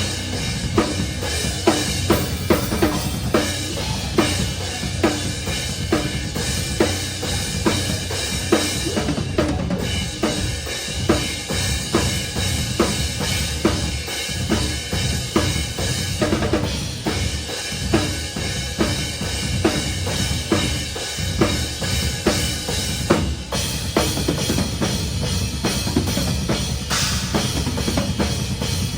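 Metalcore band playing live, heard from up close at the drum kit: steady bass drum, snare and cymbal hits driving a fast, even beat over the band's loud, dense music.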